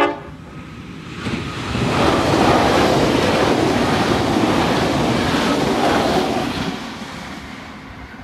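Queensland Rail Tilt Train passing over a level crossing: the last instant of its horn blast at the very start, then a rushing of wheels and carriages that builds about a second in, holds for several seconds and fades near the end.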